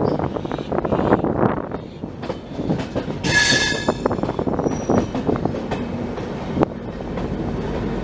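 Passenger train running on the track, wheels rumbling and clicking over the rail joints, with a brief high-pitched metallic squeal about three seconds in.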